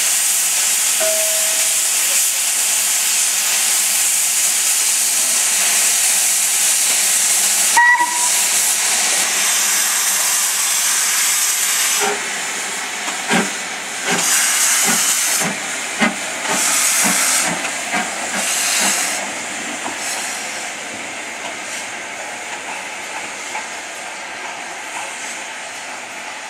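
Stanier 8F 2-8-0 steam locomotive letting off steam: a loud, steady hiss, with a brief high tone about eight seconds in. About halfway through, the hiss breaks into separate blasts with knocks among them, then dies away.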